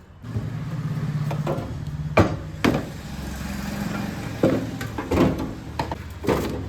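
Heavy lead-acid scooter batteries being lifted out of their metal battery box and set down: a run of sharp knocks and clunks over a steady low hum.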